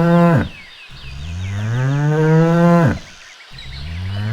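Cow mooing: long, drawn-out moos that rise slowly in pitch and drop off sharply at the end. One moo ends just after the start, a full moo of about two seconds follows, and another begins near the end.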